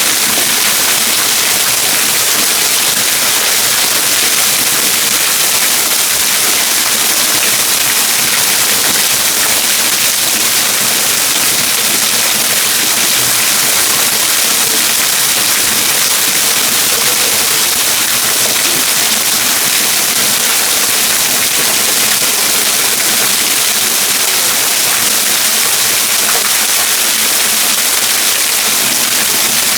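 Trettstein waterfall pouring steadily: an even, unbroken rush of falling water.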